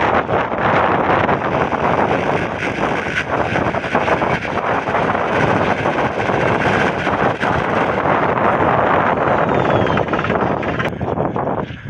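Small homemade spinning-wheel rotor, billed as a magnetic-gravity motor, whirring loudly at high speed as a steady rushing, rattling noise that drops off sharply about 11 seconds in.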